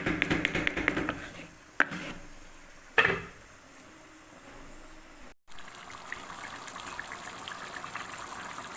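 A pot of green fava beans and meat in tomato juice bubbling on the stove, with dense crackling in the first second and two sharp clinks of a utensil or lid at about 2 and 3 seconds. After a brief cut, a steady simmer with small pops continues.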